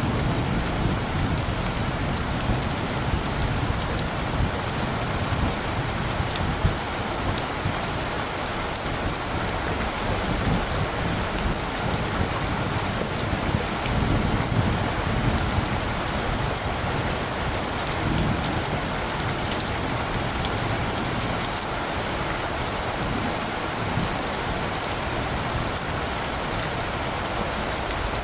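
Steady rain falling, with many individual drops ticking. Under it a low rumble of light, distant thunder comes and goes.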